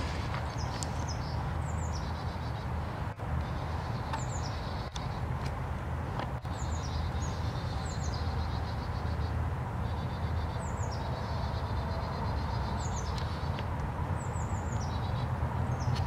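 A small bird calling again and again, every second or two: each call a high falling whistle run into a rapid rattling trill, over a steady low rumble.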